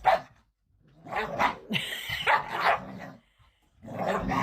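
A dog barking in a few short bursts with gaps between them.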